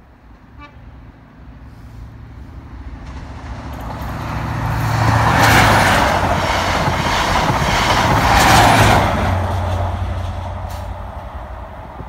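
Diesel passenger train passing over a level crossing at speed: a rising rush of wheels on rail over a low engine drone. It peaks twice, about five and a half and eight and a half seconds in, then fades away.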